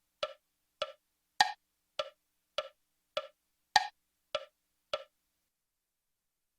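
Metronome click track of a backing-track sequence ticking on alone, a wood-block-like click about 100 times a minute with every fourth click higher and louder. It stops after nine clicks, about five seconds in.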